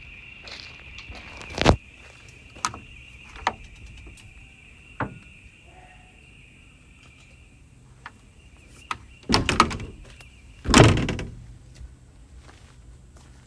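A metal door or hatch on a Volvo EC140D LC excavator being worked, giving several sharp knocks and clanks, a quick cluster around 9 to 10 seconds in and the loudest slam about 11 seconds in. A steady high tone runs underneath and stops at that slam.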